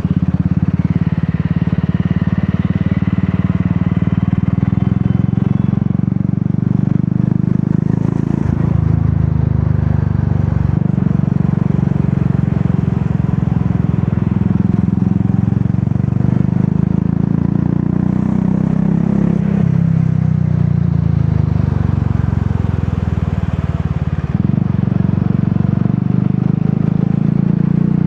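Royal Enfield Classic 350's single-cylinder engine exhausting through an aftermarket Dolphin silencer, running steadily while riding with a deep, low beat. The note changes a few times as the throttle changes.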